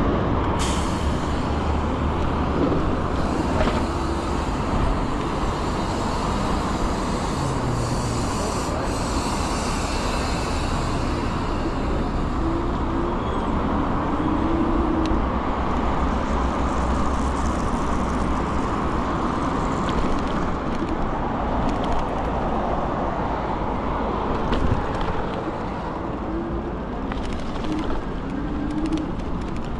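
Steady wind and road noise while riding an electric scooter in city traffic. Short rising whines come and go now and then.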